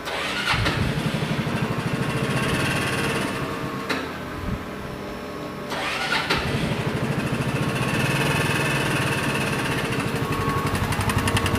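A small four-stroke scooter engine starts and runs, rising in revs twice. It makes a few sharp knocks in the first half, and the knocking is being checked as a possible rod knock.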